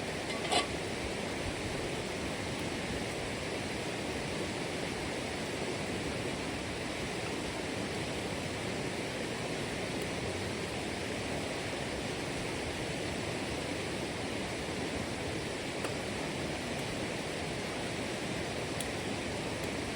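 Steady rushing of running water, even and unbroken, with a brief click about half a second in.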